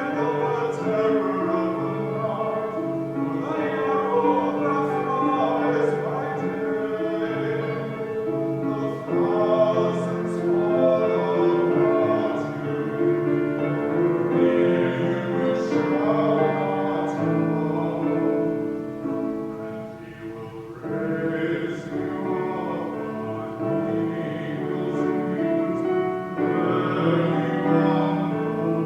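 Slow sung music: voices holding long notes over an instrumental accompaniment.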